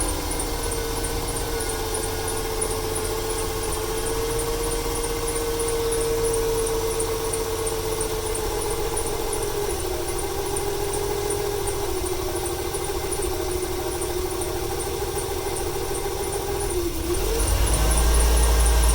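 Ford 300 inline-six engine with over 400,000 miles, running unevenly with a misfire, a steady whine over it. Near the end it gets louder as the gas is applied, and it stutters on the throttle, which the owner puts down to a fuel or a timing issue.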